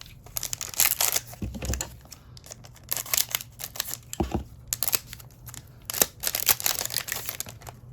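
Trading-card pack wrapper crinkling and rustling as it is handled, in three bouts of crackly noise.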